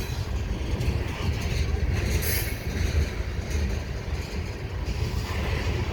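Mixed freight train rolling past, its cars making a steady low rumble of wheels on rail.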